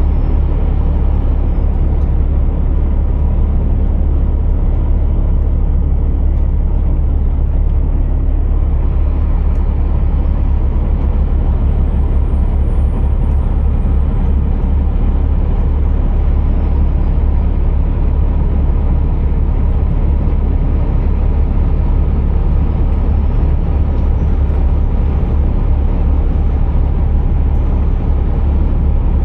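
Scania R480 truck's diesel engine running steadily under way, a continuous low rumble with road noise. A faint high whine rises and falls about halfway through.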